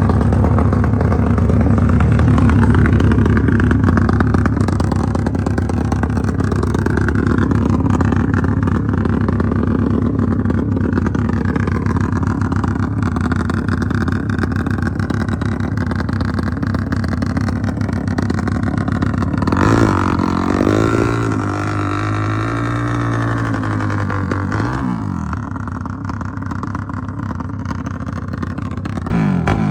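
Drag-racing motorcycle engines running loud and steady. About twenty seconds in, an engine note rises and falls in pitch for a few seconds, then the sound eases off somewhat.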